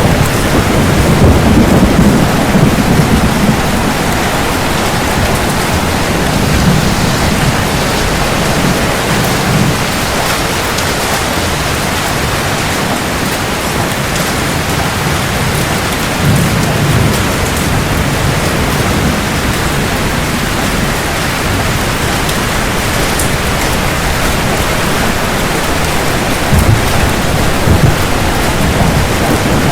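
Heavy, steady rain falling, with several low rolls of thunder swelling and fading: one near the start, another about a quarter of the way in, one past the middle and one near the end.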